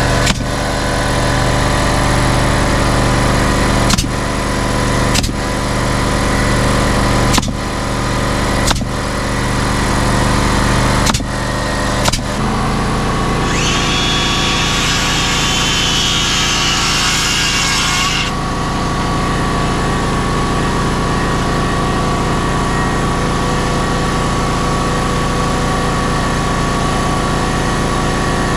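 An engine runs steadily, broken by sharp clicks every second or two in the first half. Its hum settles to a different steady pitch about twelve seconds in. A power tool whirs over it for about four seconds in the middle.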